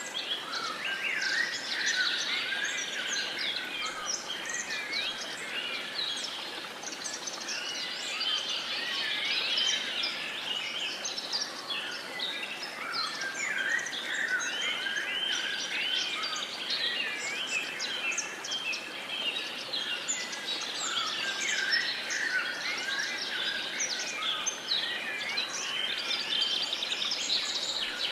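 Many birds singing and chirping at once, a dense, overlapping chorus of short whistled and trilled phrases, over a soft steady background hiss.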